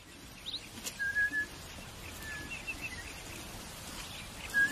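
A bird calling: a short whistled note about a second in, a quick run of high chirps midway, and the same whistled note again near the end, over faint outdoor background noise.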